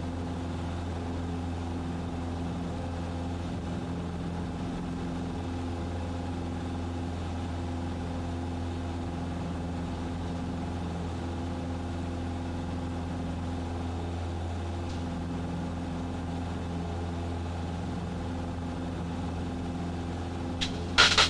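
Cessna 150's Continental O-200 four-cylinder engine and propeller droning steadily in the cabin during the climb-out. A short louder burst of sound comes near the end.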